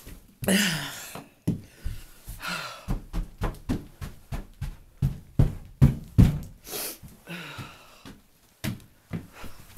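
Footsteps thudding in snow, two or three a second through the middle, with a few short hissing rushes near the start and end.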